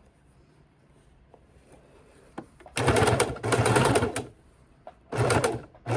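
Sewing machine stitching in four short bursts, each under a second, starting about halfway through, as bias tape is eased around a corner a few stitches at a time.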